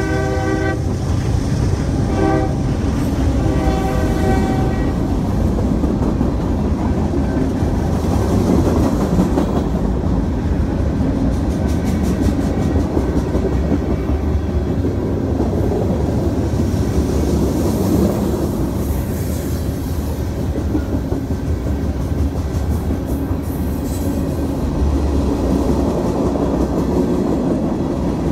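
Freight train cars rolling past close by: a steady loud rumble with the clickety-clack of steel wheels over the rail joints. In the first five seconds the locomotive's air horn sounds from further down the line, a short blast and then a longer one.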